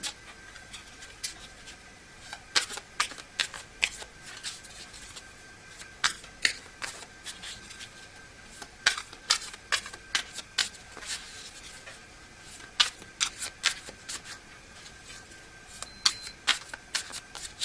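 A deck of tarot cards being shuffled by hand, heard as irregular clusters of sharp card clicks.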